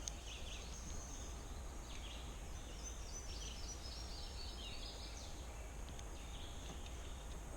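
Outdoor ambience by a creek: scattered short bird chirps, busiest around the middle, over a steady high insect drone and a low steady rumble.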